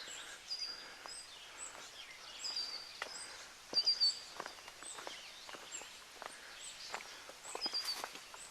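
Footsteps on a forest trail, a string of uneven scuffs and taps, with a bird repeating a short high whistled note several times over the top.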